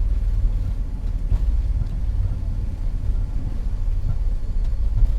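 Steady low rumble in the cockpit of an Avro RJ100 airliner slowing on the runway after touchdown, its four jet engines at ground idle.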